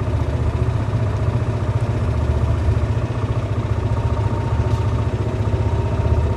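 Golf cart driving along a path: a steady low drone of the cart in motion, with no change in pace.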